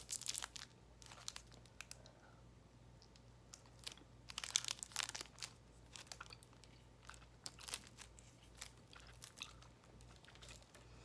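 Crinkling of a candy wrapper at the start, then chewing of an Airheads cherry taffy bar with the mouth closed, in small clicks and crackles, with a louder burst about four seconds in.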